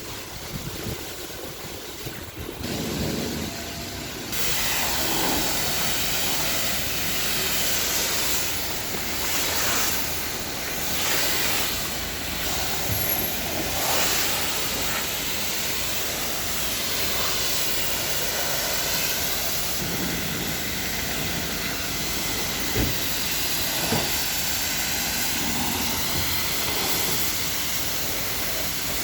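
Car wash high-pressure spray wand hissing, switched on about four seconds in and then spraying steadily, its tone shifting slowly as the jet moves.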